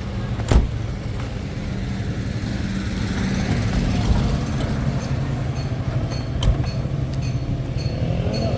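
Steady low rumble of a running vehicle, with a sharp knock about half a second in and another about six and a half seconds in.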